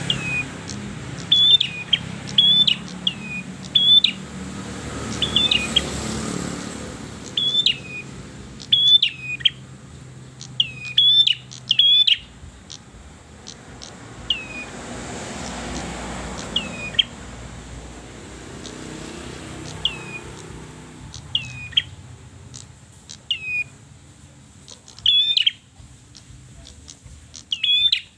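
Prenjak kepala merah, a small red-headed songbird, calling insistently. It gives sharp, high, repeated chirps, often in quick pairs and clusters, with a sparser stretch in the middle before the calls pick up again near the end.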